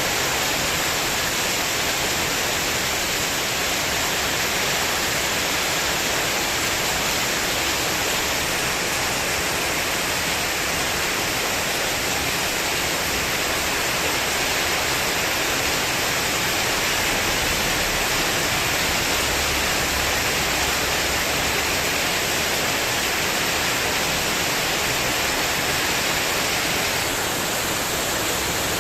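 Heavy rain falling steadily on a spandek (corrugated metal sheet) porch roof, a dense, even hiss of drops.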